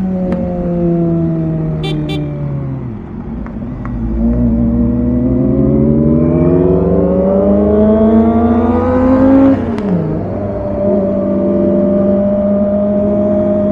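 Kawasaki ZX25R's 249 cc inline-four through a Villain R11 exhaust while riding: revs fall away off the throttle, then climb steadily for about five seconds. They drop sharply just before ten seconds in, as at a gear change or a closed throttle, then hold steady.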